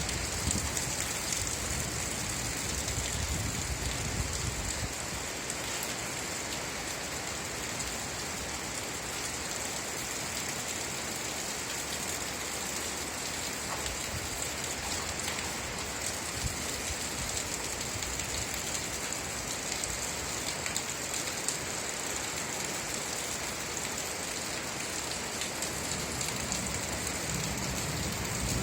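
Steady rain falling, an even hiss with many small drop ticks and no change in strength.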